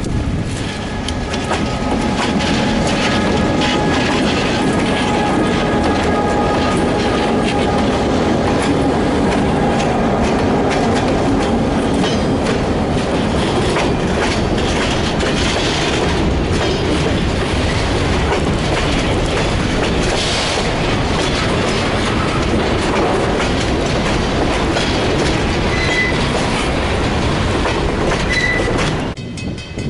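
Freight train passing close by: the tail end of the KBS diesel locomotives goes by, then hopper cars rolling past with a steady clickety-clack of wheels over rail joints. A couple of brief high wheel squeals come near the end.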